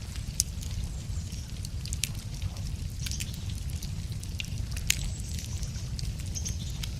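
Wood campfire crackling, with irregular sharp pops and snaps from the burning logs, two louder ones about half a second in and near five seconds, over a steady low rumble.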